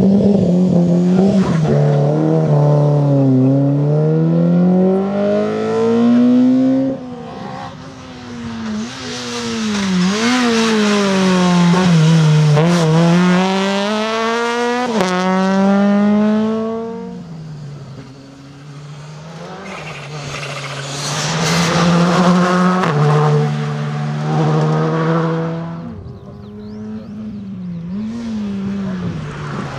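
Rally cars driven hard on a stage, engines revving up and falling back again and again through gear changes and throttle lifts, growing louder and fading as they pass, with some tyre squeal.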